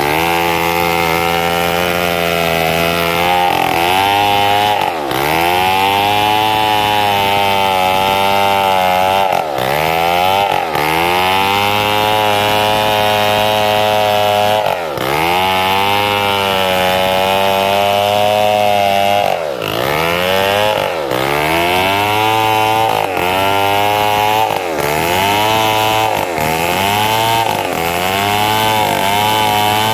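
Two-stroke chainsaw running at high revs while cutting mahogany, its pitch dipping and recovering every few seconds as the engine bogs under the cutting load.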